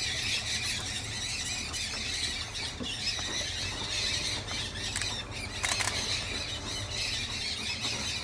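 A large mixed flock of parrots at a clay lick, including blue-headed parrots, dusky-headed parakeets and mealy amazons, screeching and squawking in a continuous overlapping din. A couple of sharp clicks sound about midway.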